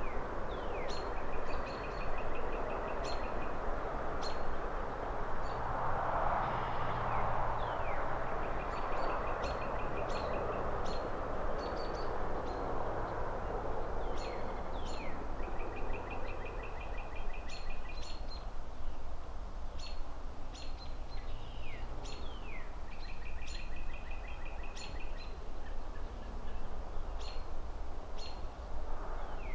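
Outdoor city ambience: a steady rushing background of distant traffic and rustling leaves, swelling for a couple of seconds about six seconds in, with birds chirping throughout. The birds give short high chirps, quick downward-sliding whistles, and a fast trill of repeated notes several times over.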